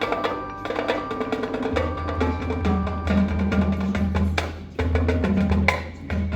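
High school marching band playing its field show: rapid percussion clicks and drum hits, joined about two seconds in by low sustained notes that pulse with short breaks.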